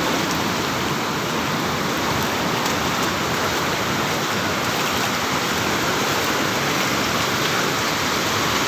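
Heavy sea surf: a steady, loud rush of breaking waves and churning water.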